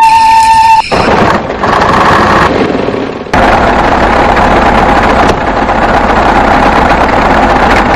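Small mini engine running a miniature chaff cutter, a loud, dense, rattling mechanical clatter. It starts abruptly about a second in, after a moment of flute music, and jumps in level a few times at sudden cuts.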